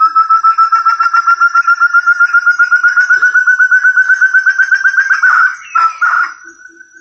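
Recorded call of a puyuh hutan (forest partridge) used as a bird lure. It is a rapid string of clear whistled notes, about ten a second, climbing slowly in pitch. A little after five seconds it breaks into a few rougher, jumbled notes.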